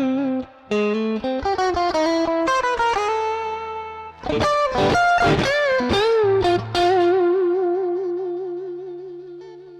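Electric guitar lead played through an amp with light overdrive: a quick phrase with string bends, ending on one long held note with wide, even vibrato that slowly fades.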